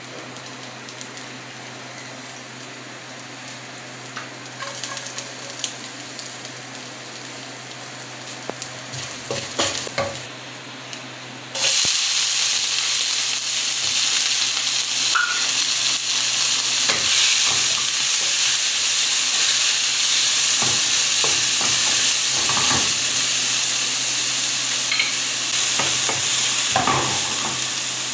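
Chopped garlic sizzling quietly in oil in a nonstick wok, with a few spatula scrapes. About twelve seconds in, sliced onions go into the hot oil and a loud sizzle starts suddenly, as a spatula stirs them against the pan.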